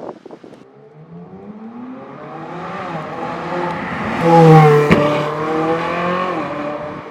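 A sports car accelerating hard past. Its engine note climbs in pitch and loudness, with a single sharp crack at the loudest point about five seconds in, then drops in pitch and fades away.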